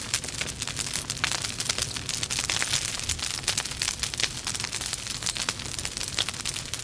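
Logs burning in a fireplace, crackling steadily with many small, quick pops over a soft hiss.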